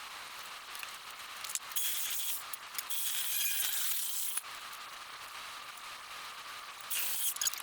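Clinking and rattling of materials being handled, in a few short noisy bursts about two, three and seven seconds in, over a faint steady hum.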